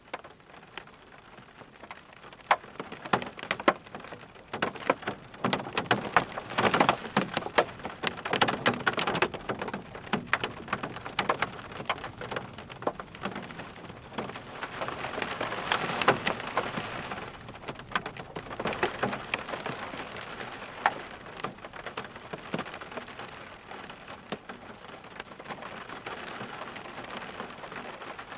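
Rain falling steadily, with many separate drops pattering sharply on a surface close by; it comes down heavier in two spells, about a quarter of the way in and again around the middle.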